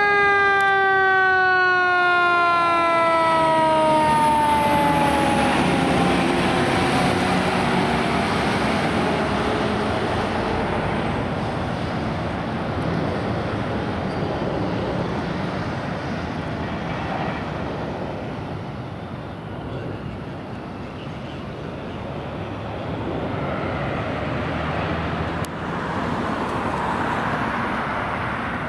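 A fire truck's mechanical siren, its pitch falling slowly as it winds down over the first several seconds. Heavy truck engine and road noise runs on after it.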